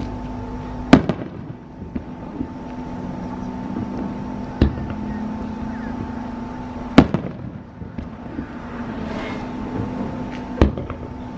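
Fireworks display: aerial shells bursting as sharp bangs, four loud ones a few seconds apart and a few smaller pops between them, over a steady low hum.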